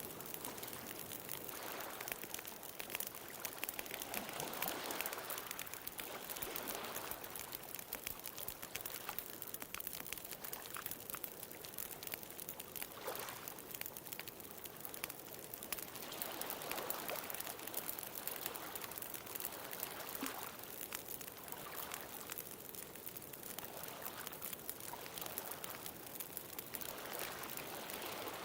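Wood fire crackling with scattered sharp pops, over ocean waves washing in and drawing back, a soft swell every few seconds.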